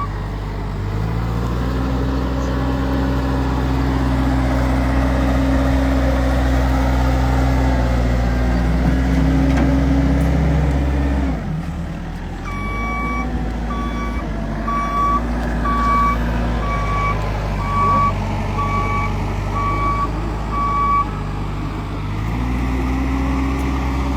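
A large vehicle's engine running, rising in the first seconds and held there, then easing off about halfway through. Its reversing alarm then beeps steadily, roughly once a second, about ten times while it backs up, and the engine picks up again near the end.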